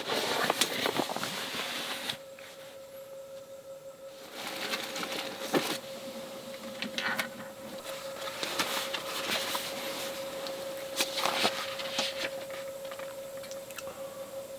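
Rustling and many small clicks and taps of things being handled, in two stretches, over a steady faint hum.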